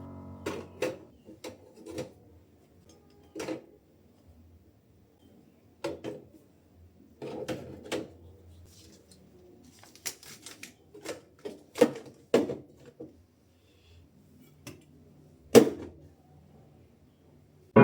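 Scattered clicks and knocks of groceries and containers being handled and set down, about a dozen irregular taps with quiet gaps between them.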